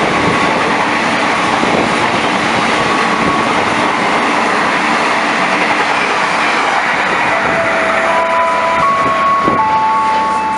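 A train passing close by: the loud, steady rushing noise of its wheels and carriages on the track. About two-thirds of the way through the noise eases and a few steady held tones come in.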